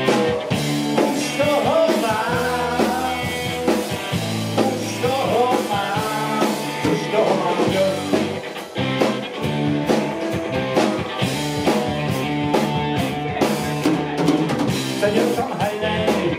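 Live rock band playing, with electric guitar, bass and drum kit, and a lead line, sung or played, winding over the top.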